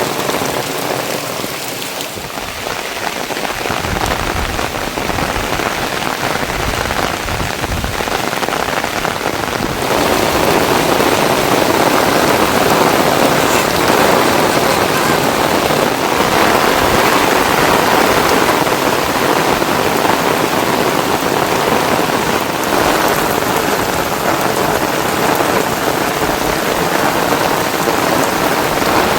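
Heavy rain pouring steadily, a dense even hiss that grows louder about ten seconds in.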